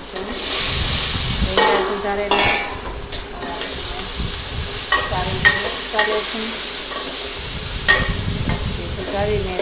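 Cubed eggplant tipped into hot oil in a stainless-steel pot sets off a loud sizzle about half a second in. The frying sizzle carries on while a spoon stirs it, knocking and scraping against the steel pot several times.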